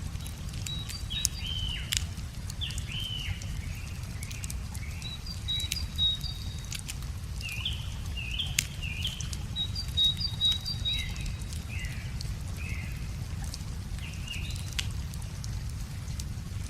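Wood fire crackling with sharp, irregular pops, while songbirds sing repeated short phrases of chirps and clear whistled notes. A steady low rush runs underneath.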